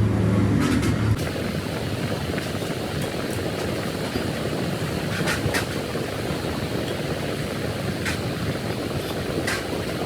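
Workshop noise: a steady mechanical rumble with a few short sharp clicks, and a low hum that fades out about a second in.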